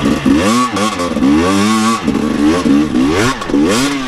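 Dirt bike engine revving up and down repeatedly, the pitch climbing and dropping several times as the throttle is worked.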